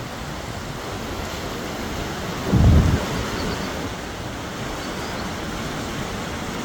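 Wind buffeting the microphone: a steady rush, with one strong low gust about two and a half seconds in.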